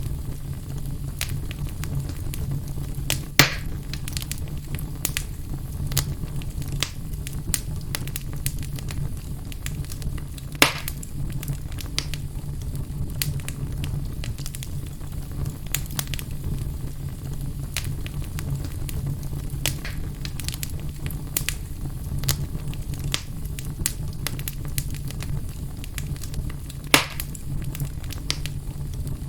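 Fire burning in a fireplace: a steady low rumble of flames under constant small irregular crackles, with three louder pops spread through.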